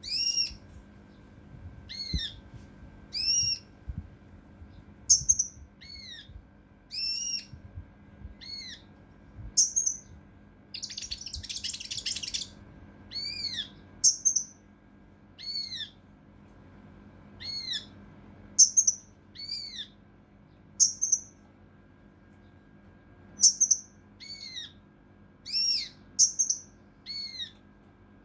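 Kinoi (cucak rante mas) calling in a quick string of short, arched whistled notes, roughly one a second, with a longer harsh rasping call about eleven seconds in.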